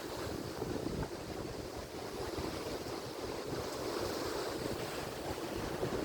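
Atlantic Ocean surf: waves breaking and washing on the shore in a steady wash of noise, with some wind buffeting the microphone.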